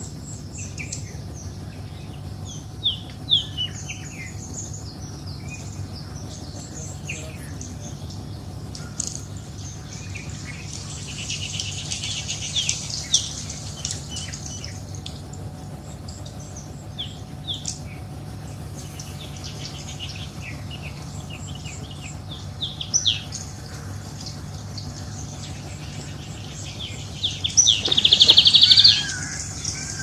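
Many short, high bird calls scattered over a steady low hum, busiest for a few seconds near the middle. A loud, harsh, rasping call comes near the end.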